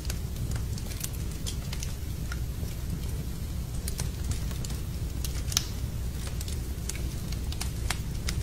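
Fire burning in a fireplace: irregular sharp crackles and pops over a steady low rumble, with one louder pop about five and a half seconds in.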